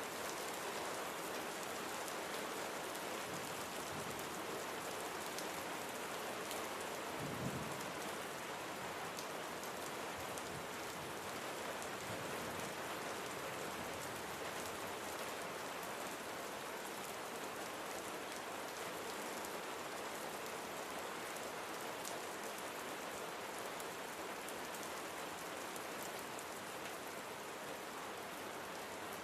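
Steady rain falling: an even hiss with scattered drop ticks, and one brief low thud about seven seconds in.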